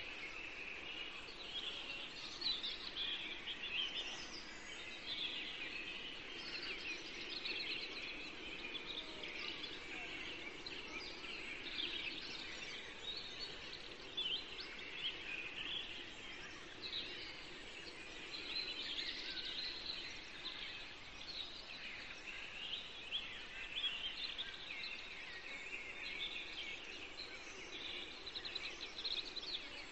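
Birds chirping and chattering: a dense, continuous run of short high calls overlapping one another.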